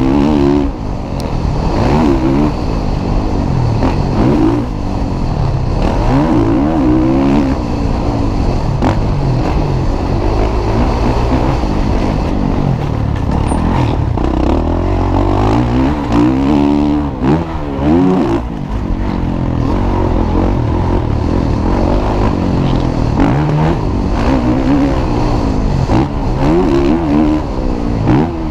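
Motocross bike engines racing on the track, revving up and dropping back again and again as the riders accelerate and change gear.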